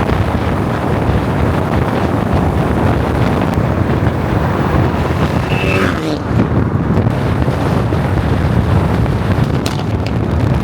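A car driving: steady engine and road noise with wind buffeting on the microphone, and a short pitched sound about halfway through.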